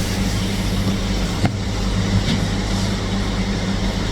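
Steady low hum of a car running, heard from inside the cabin, with one sharp click about a second and a half in.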